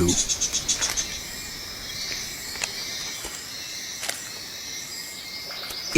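A quick, high-pitched rattle of rapid pulses in the first second, then a steady rainforest insect chorus with a few faint clicks.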